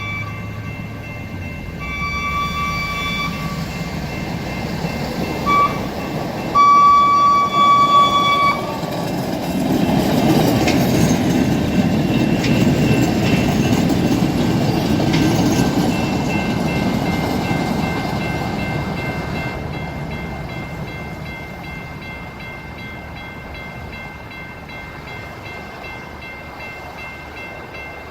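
CTA Bombardier 5000-series rapid-transit train sounding its horn in four blasts (the last the longest and loudest), then rumbling past on the rails, the wheel noise building and then fading away.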